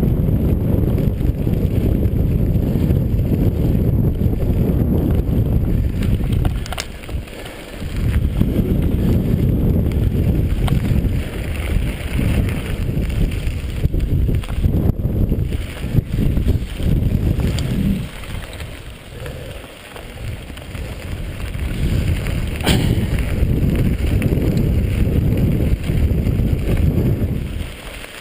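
Mountain bike riding a dirt trail: heavy wind rumble on the microphone with tyre noise and occasional rattling clicks over bumps. It eases off briefly about seven seconds in and again around twenty seconds.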